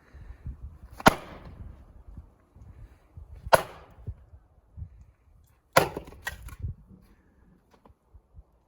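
An axe striking a log while splitting firewood: three hard blows about two and a half seconds apart, the last followed by a lighter knock.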